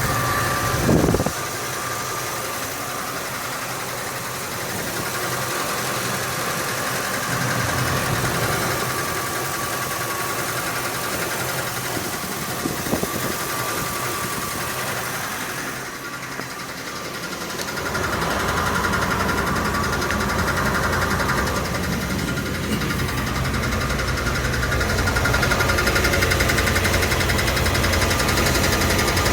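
Truck engine running at idle with a ticking from underneath the truck. The low rumble grows louder about two-thirds of the way through.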